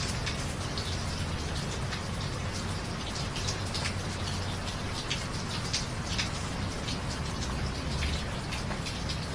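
Steady rain falling, with many individual drops pattering on a hard surface over a constant low background rumble.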